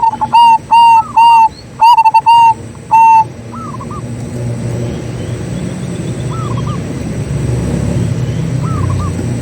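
Zebra dove (perkutut) cooing: a loud run of about eight short, clipped notes on one pitch over the first three seconds. Behind it a fainter bird gives a short three-part call every few seconds, over a steady low rumble.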